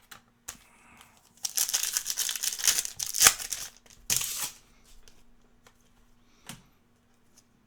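Foil wrapper of a trading card pack being torn and crinkled, in two bursts of tearing noise, the first about two seconds long and the second brief, followed by a single click.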